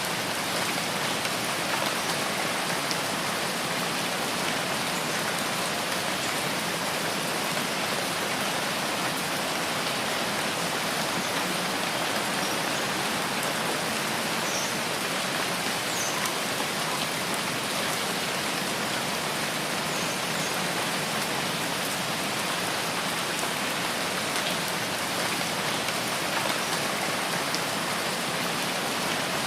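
Steady rain falling on foliage and surfaces, a constant even hiss with occasional faint drop ticks.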